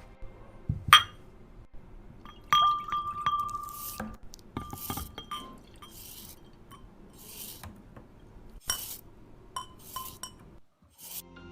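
Small glass and ceramic kitchenware being handled and set down, clinking several separate times, some clinks ringing on for a moment. Short brushing noises come between the clinks.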